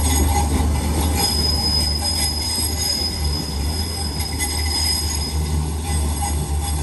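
Train running on the rails with a steady low rumble, and a high, steady wheel squeal from about a second in until about five seconds in.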